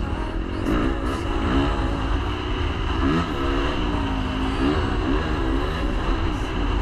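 Dirt bike engine revving up and down repeatedly as it is ridden along a trail.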